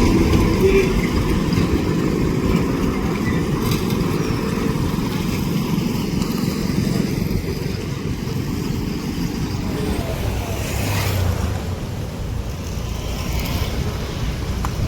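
Heavy diesel engine running steadily with a deep rumble, easing slightly about ten seconds in.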